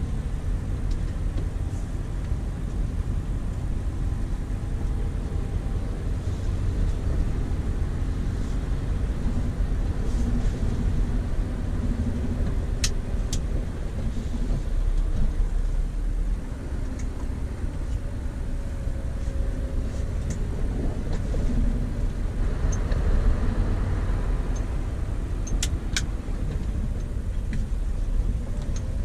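Scania V8 diesel truck engine running steadily under way with a low rumble, its pitch shifting slowly. There are sharp clicks about halfway through and again near the end.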